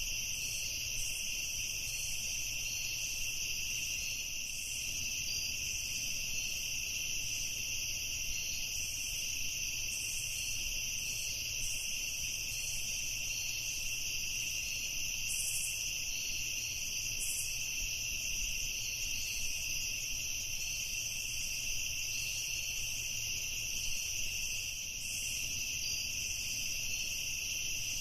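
Evening chorus of crickets and other insects: a steady, unbroken high-pitched chirring with several pitches sounding at once.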